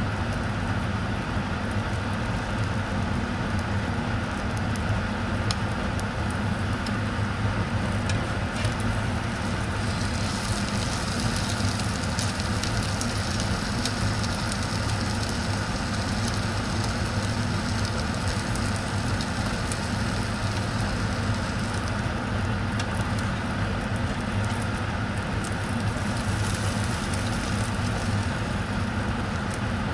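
Egg-dipped sandwich frying in a nonstick pan: steady sizzling over a constant low hum, with a few light clicks from a metal spatula.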